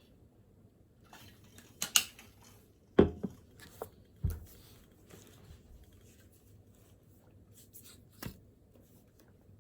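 A few sharp knocks and clicks of things handled on a study desk, the loudest about two and three seconds in, over quiet room noise.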